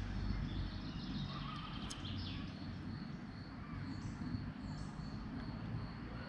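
Scattered bird chirps in a wooded park over a low, steady rumble.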